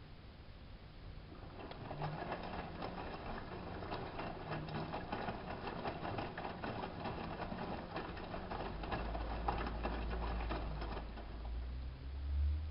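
Hanseatic HWM814A3D washing machine running a wash: a busy, rattling clatter starts about a second and a half in and stops near the end. A low hum comes in about two-thirds of the way through and is still going when the clatter stops.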